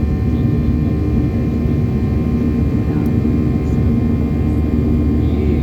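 Steady jet-engine drone heard inside the cabin of a Boeing 737-800, its CFM56-7B turbofans running at high power with a deep rumble and several steady hums.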